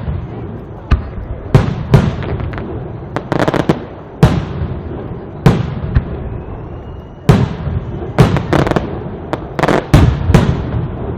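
Aerial firework shells bursting in a castillo display: about a dozen loud bangs, some single and some in rapid clusters, each echoing away, over a steady rumble of the show.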